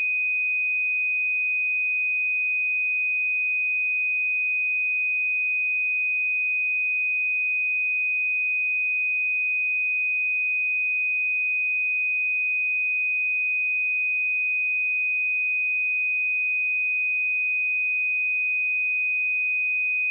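Steady, unbroken 2498 Hz test tone: a pure sine wave held at one pitch and one level, with no other sound.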